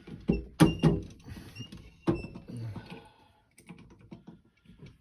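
Small metal parts clinking and knocking together as they are handled: a string of irregular sharp clicks, a few ringing briefly, loudest in the first second and again about two seconds in.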